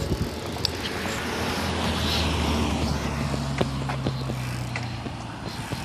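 Passing car traffic: engine hum and tyre noise swell and then ease off, with a few sharp clicks scattered through.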